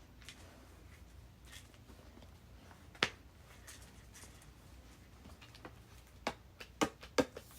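Light, sharp taps on the VTech Bugsby reading toy: a single tap about three seconds in, then four quick taps near the end, over faint room tone.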